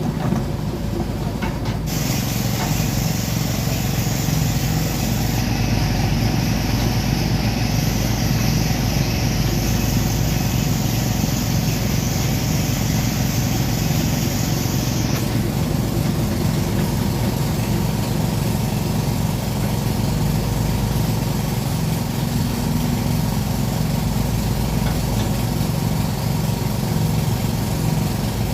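Diesel engine of a Sumitomo SH210-5 hydraulic excavator running steadily at an even, low pitch.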